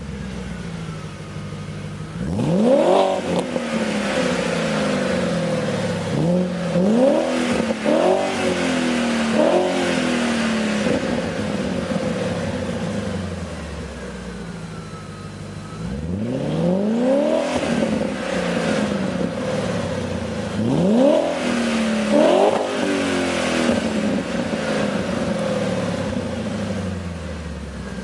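Audi RS6 C5's twin-turbo V8 through an MG Motorsport 2.75-inch exhaust with sport catalytic converters, idling and revved in short blips, each rising sharply in pitch and falling back to idle. Four blips come in the first ten seconds, and after a steady idle three more follow.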